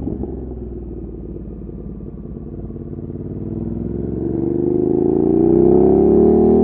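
Ducati Monster 1200's L-twin engine through an Austin Racing aftermarket exhaust, running at low revs and then accelerating, its pitch rising and the sound growing louder from about halfway through.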